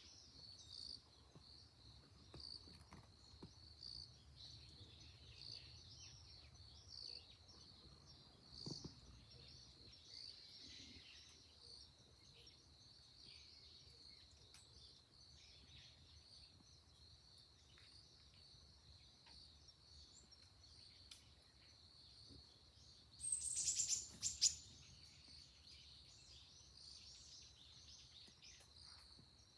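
Faint wild birdsong in woodland over a steady high-pitched chorus, with scattered small chirps. About 23 seconds in, one louder bird call sounds for about a second and a half.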